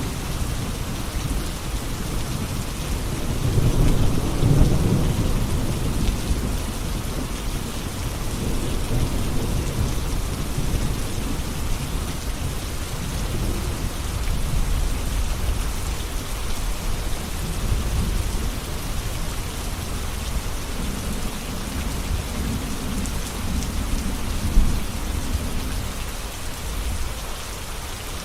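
Steady heavy rainfall with rolling thunder: low rumbles swell and fade a few times over the hiss of the rain, the strongest a few seconds in, and a sharper crack comes near the end.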